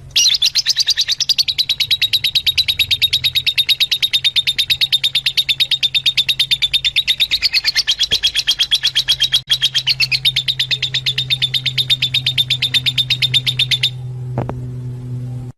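Fischer's lovebird calling in a rapid, evenly repeated string of high-pitched chirps, about eight a second, that stops abruptly near the end.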